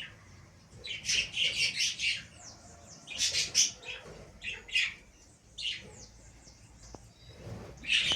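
Small exotic cage birds chirping and squawking in short bursts of quick, high calls, a burst every second or two.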